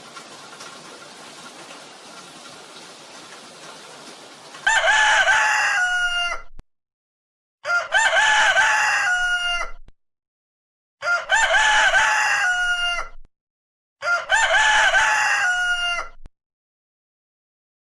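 A steady hiss for the first few seconds, then a rooster crowing four times, each crow about two seconds long and ending on a falling note, with short silent gaps between them.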